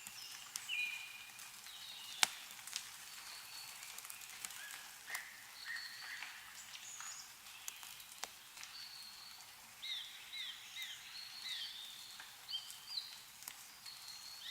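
Small birds chirping and calling in short repeated notes, over scattered sharp taps of meltwater dripping from snow-laden trees; one tap about two seconds in is the loudest.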